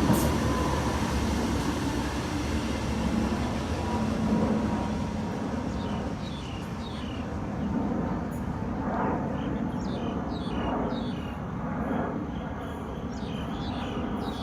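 Disneyland Resort Line M-Train rumbling away on the track, loud at first and fading within the first couple of seconds to a low, steady rumble.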